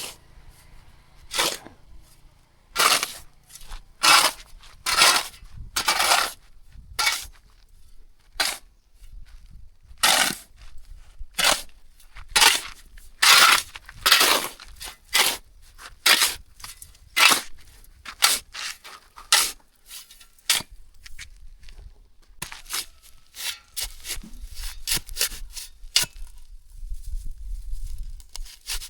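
Repeated rough scraping strokes, about one a second, then quicker and shorter strokes near the end.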